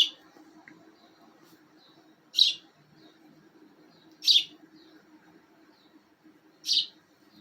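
Small pet bird giving four short, sharp chirps about two seconds apart, over a faint steady low hum.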